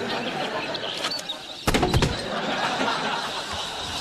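A flock of birds chirping and twittering densely, with a loud thump about two seconds in.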